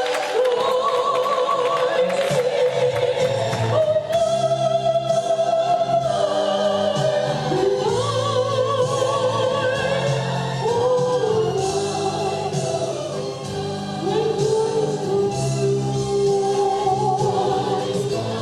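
A gospel choir singing held, sustained notes with vibrato over steady instrumental accompaniment.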